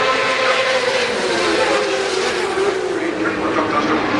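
Superbike race engines running hard at high revs, their pitch drifting and dipping about three seconds in.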